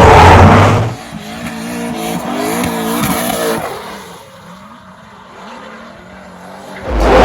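BMW E30's turbocharged 4.4-litre V8 on hard throttle in a drift, with tyres screeching. It is very loud at first, then drops off sharply to a more distant engine note rising and falling with the throttle. That note fades further before the car comes back very loud near the end.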